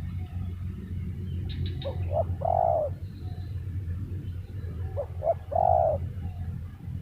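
Spotted dove (tekukur) cooing: two calls about three seconds apart, each a couple of short notes followed by a longer rolling coo. A steady low hum runs underneath.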